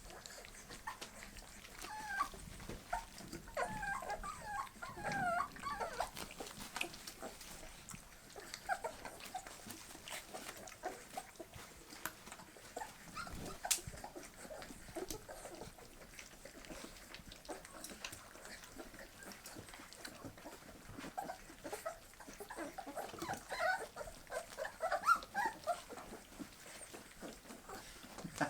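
Young bull terrier puppies whimpering and squeaking in short high calls, bunched a few seconds in and again near the end, with small clicks and smacks of them eating puppy food.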